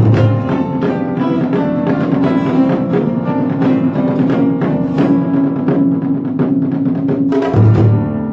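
Instrumental ensemble music blending acoustic guitar and piano with Japanese taiko drums: dense rhythmic playing over sustained notes, with a deep drum stroke at the start and another near the end.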